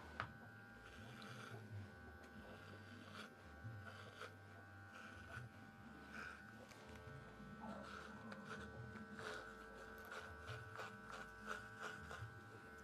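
Electric hair clipper running with a faint, steady buzz.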